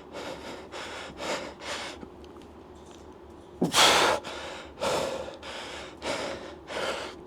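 A person breathing hard from exertion: quick, heavy breaths in and out, a pause of about a second and a half near the middle, then one loud sharp gasp followed by several more heavy breaths.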